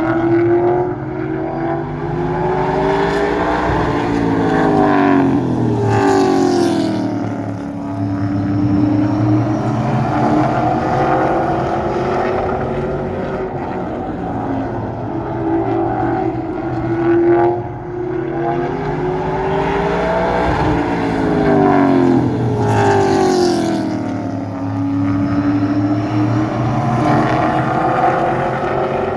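A vehicle engine running steadily, its pitch climbing and then dropping with a brief whoosh as it passes close by, twice, about 17 seconds apart.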